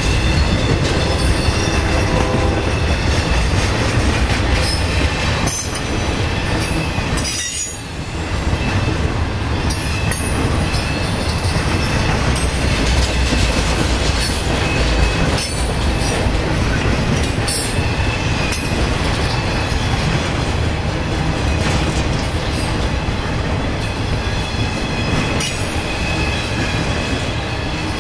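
A BNSF intermodal freight train's cars rolling past on the climb, a steady loud rumble and rattle of steel wheels on rail, with a brief dip in loudness about seven and a half seconds in.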